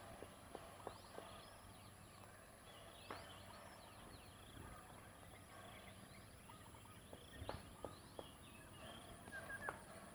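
Faint scuffling of zebra doves fighting: scattered clicks and taps with brief high chirping notes, a little busier about three seconds in and again past the middle.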